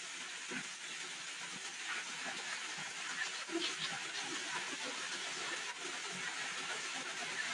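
Heavy rain falling steadily, an even hiss dotted with the patter of individual drops.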